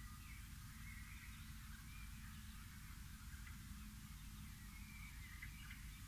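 Faint, scattered chirps and short calls of wild songbirds over a low, steady background rumble.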